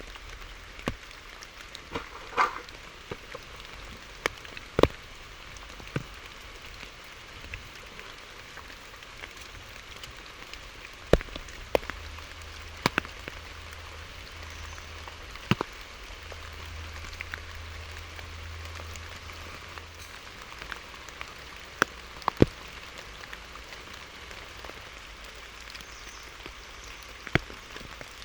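Steady rain hissing, with large drops striking a hard surface in sharp, irregular taps a second or several seconds apart.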